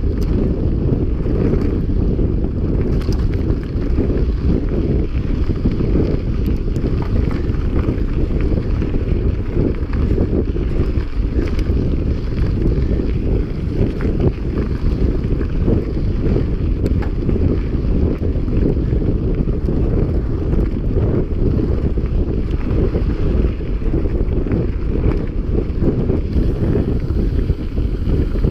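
Heavy wind buffeting on a camera microphone carried on a mountain bike at speed, a steady low rumble with scattered light clicks and rattles.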